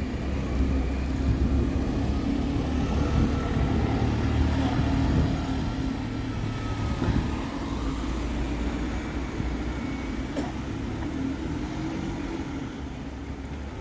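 Diesel bus engine running close by: a steady low drone with a faint whine above it, a little louder for the first several seconds and then easing slightly.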